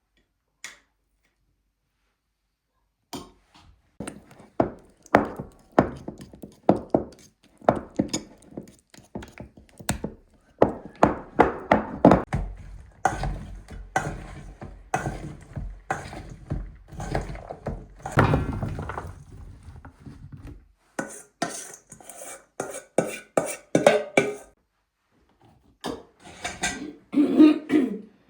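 Irregular series of knocks and thunks, quiet for the first few seconds and then coming thick and uneven, with a short pause near the end.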